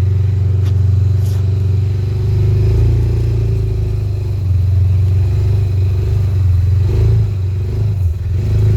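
T Boss 550 UTV's engine running steadily as it is driven, a low drone that swells a little a few seconds in and dips briefly near the end.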